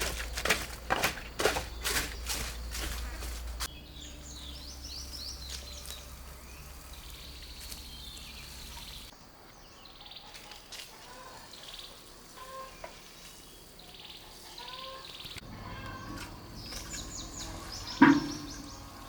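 Small birds chirping, with a run of sharp knocks over a low hum in the first few seconds and one louder knock near the end.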